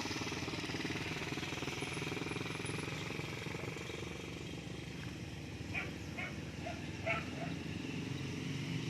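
A vehicle engine running steadily on the move. Four short animal calls come over it a little past the middle.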